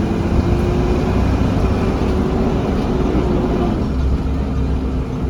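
Interior of a Blue Bird Vision school bus under way: steady engine and road rumble from the running bus, with a faint hum that drops slightly in pitch about four seconds in.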